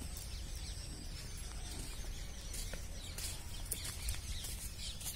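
Birds chirping in the background, with short high calls scattered through the middle, over a steady low rumble.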